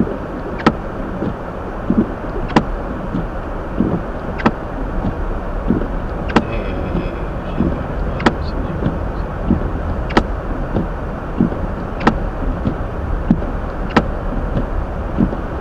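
Hyundai Elantra driving on a snowy road, heard from inside the cabin: a steady rumble of road and engine noise. A sharp tick repeats about every two seconds.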